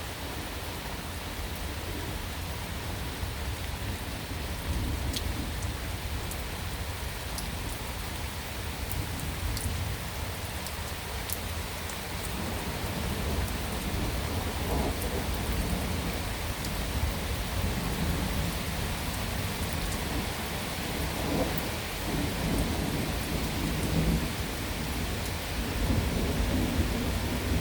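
Steady rain falling, with rolling thunder. The low rumbles build through the second half, swelling several times.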